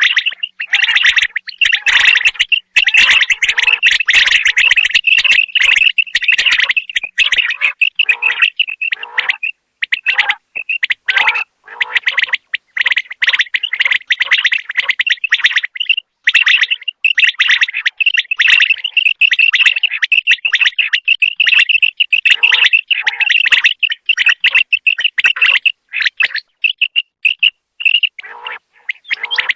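Male common quail calling: loud, rapid, high-pitched calls packed into dense runs and broken by short pauses.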